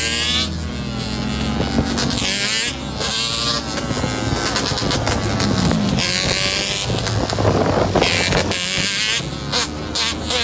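Motorcycle engines revving, the pitch climbing and falling several times as the throttle is opened and closed.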